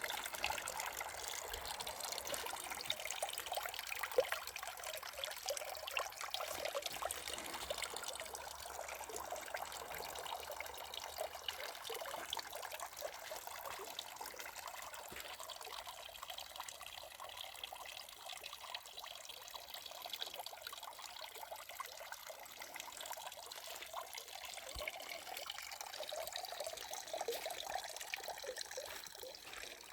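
Water trickling and splashing as it falls down a three-tiered garden water feature: a steady run of small splashes that grows gradually quieter.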